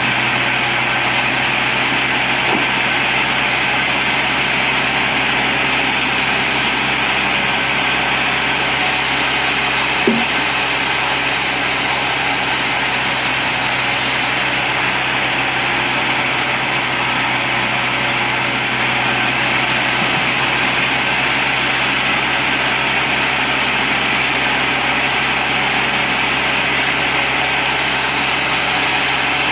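Sawmill bandsaw running steadily, with a single short knock about ten seconds in.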